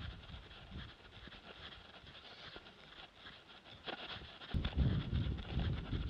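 Running footsteps of a trail runner on a dirt path, picked up by a body-worn action camera, over a steady high buzz of insects. About four and a half seconds in, a loud low rumble of wind buffeting the microphone sets in.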